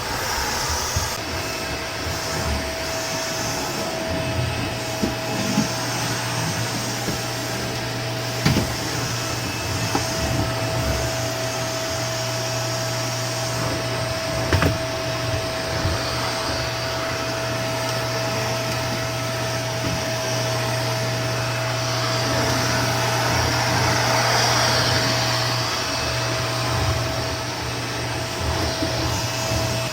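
Vacuum cleaner running steadily with a constant whine. Two sharp knocks come about a third and halfway through, and it gets louder for a few seconds about three-quarters through.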